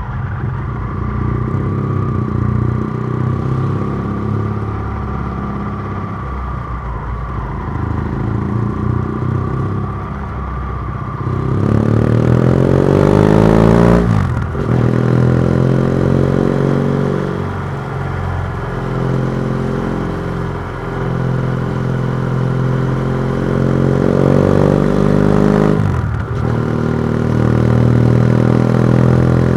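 BMW F700GS parallel-twin engine running through a MIVV Oval titanium exhaust with the dB killer removed, while riding. It holds a steady part-throttle note, then about a third of the way in the revs climb hard and fall sharply at a gear change. The revs climb again more gradually, with another quick drop near the end.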